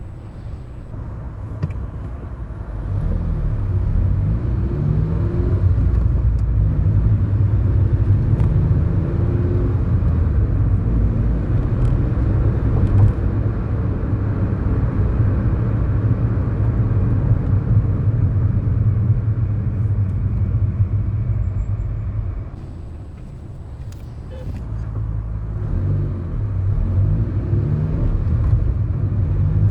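Inside the cabin of a 2011 Kia Morning: its 999 cc four-cylinder engine runs under way over steady road noise, its pitch rising as it pulls. About three-quarters of the way through the engine note drops away for a couple of seconds, then builds again.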